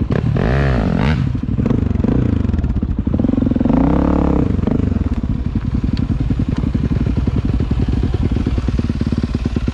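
Dirt bike engine running while riding, revving up and falling back twice, with rattling from the bike; the sound cuts off suddenly near the end.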